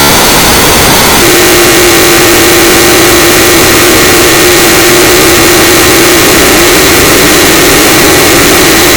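Loud, distorted, noise-like din that holds steady with a constant hum underneath from about a second in.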